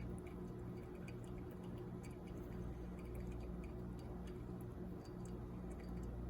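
Faint steady low hum with scattered light ticks, as coffee drains through a pour-over's reusable metal filter into the carafe.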